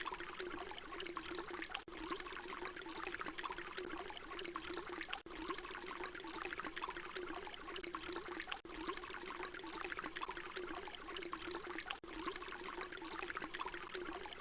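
Water pouring in a steady, continuous stream, splashing and trickling. The sound dips briefly about every three and a half seconds where the short recording loops.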